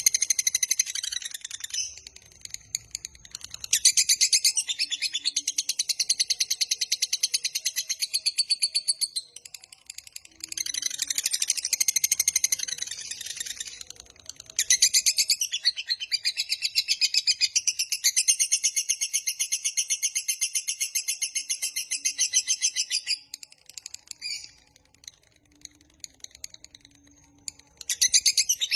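Lovebird singing its long, rapid chattering trill (ngekek panjang): several long bouts of fast, high chirps, each lasting a few seconds up to about eight seconds, with short breaks between them. Near the end the calling drops to a few faint chirps before a new bout starts.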